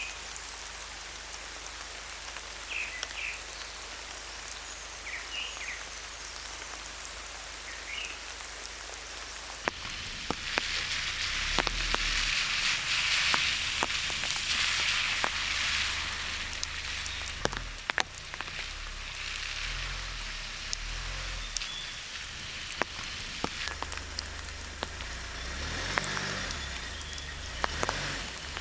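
Steady rainfall, with a few faint short chirps in the first few seconds. About ten seconds in it changes abruptly to louder, closer rain with many individual drops tapping sharply on a surface.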